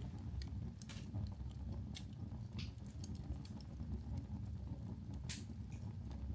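Wood briquette fire burning in an open fireplace: irregular crackles and pops over a low steady rumble, with one louder crack about five seconds in.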